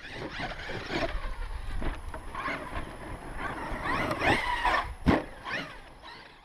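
Losi LST XXL2-E electric RC monster truck being driven hard: its brushless motor whines up and down in pitch with the throttle, over rough tyre and chassis noise. Two sharp knocks come about four and five seconds in.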